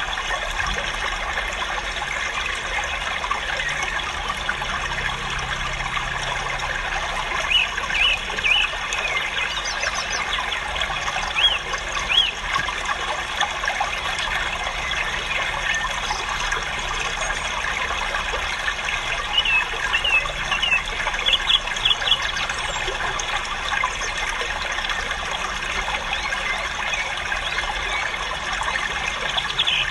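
Dense chorus of many caged small birds chirping and twittering at once, with sharper chirps standing out now and then.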